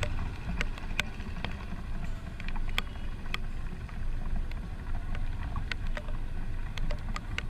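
Royal Enfield Himalayan motorcycle on the move: a steady low rumble of engine and riding noise, with scattered sharp ticks throughout.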